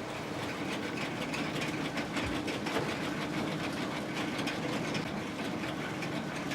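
Post office sorting-office machinery running steadily: letters being fed through a postmarking machine with a fast, even clatter over a low hum.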